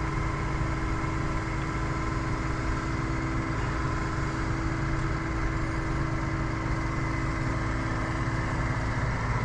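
Tractor engine running steadily, an even whine over a low rumble.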